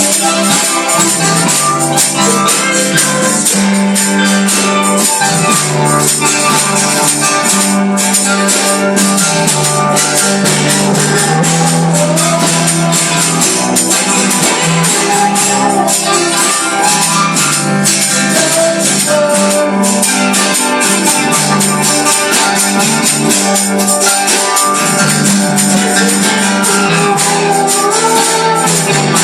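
Live gospel music from a band, with a steady, fast jingling percussion high over the pitched instruments.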